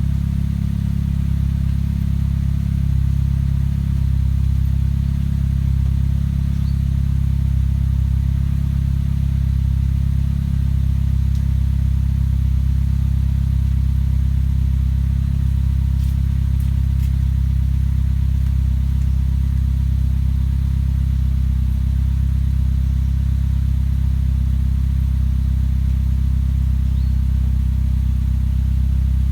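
Perodua Bezza's exhaust through an aftermarket HKS S-Flow muffler, the engine idling with a steady, deep, even hum.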